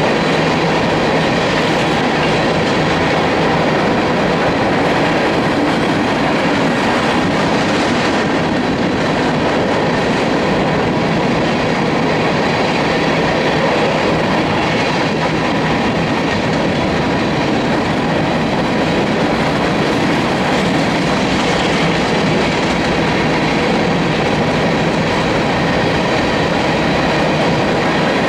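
Union Pacific freight train cars rolling past on the rails, a steady, unbroken rumble of wheels on track.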